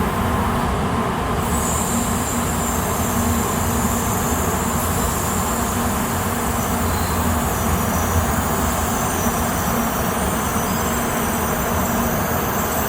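Steady low rumble and hum of a Shinkansen train, even in level throughout, with no approach or fade.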